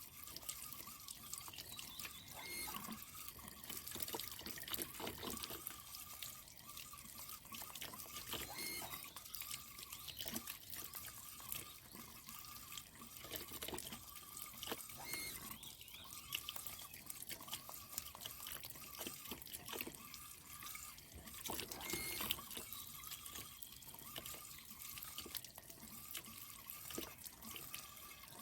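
Running water trickling and dripping, with many small irregular drips and splashes.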